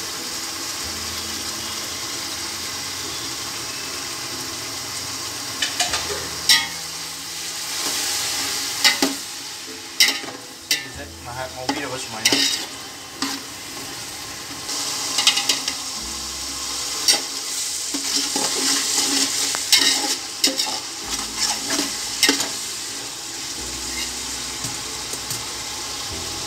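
Chopped tomatoes, onions and herbs frying in an aluminium pot with a steady sizzle. From about six seconds in, a metal spatula scrapes and clinks against the pot as the mixture is stirred, on and off until near the end.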